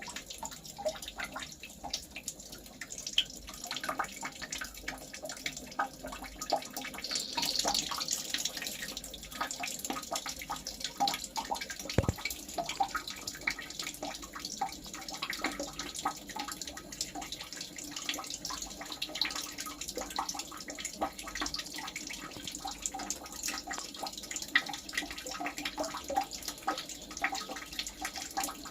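Water trickling and dripping, with many small irregular ticks and clicks and one sharp click about twelve seconds in.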